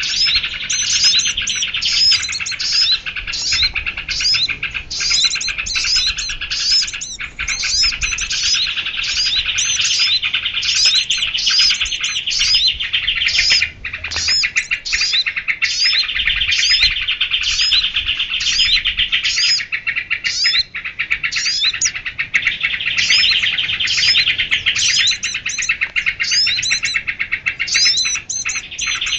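Bird-lure recording of small birds: a dense, continuous twittering chorus with sharp high sweeping notes repeated about once or twice a second, the kind of mixed small-bird call track used to draw birds in.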